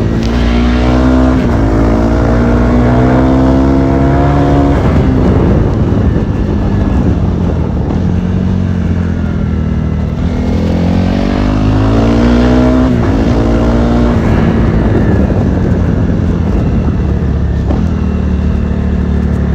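Honda CRF300L's single-cylinder engine accelerating hard, its pitch climbing with a brief dip for a gear change about 1.5 s in, then dropping off the throttle around 5 s. It pulls up again around 10 s and backs off shortly after the middle, running at lower revs to the end.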